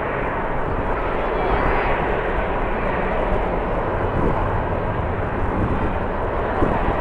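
Jet airliner engines running, a steady noisy rush, with strong wind buffeting the microphone.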